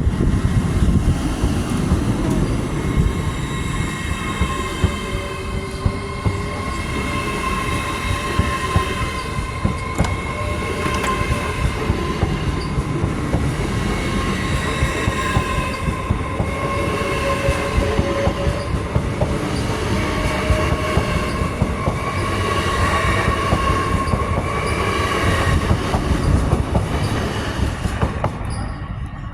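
A train rolling past with a heavy rumble and frequent clacks over the rail joints, its wheels squealing in steady high tones throughout; it fades away near the end.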